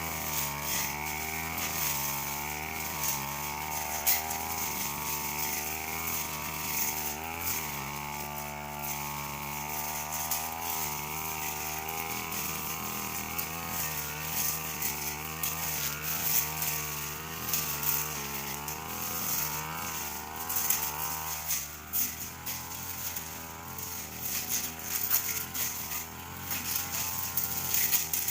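Petrol brush cutter running at high revs, its engine note rising and falling about once a second as it is swung through thin grass, with scattered sharp ticks.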